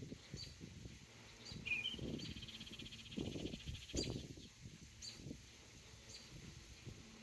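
Songbirds chirping: short high chirps about once a second, with one buzzy trill lasting nearly two seconds early on, over a low rumbling noise that swells a few times.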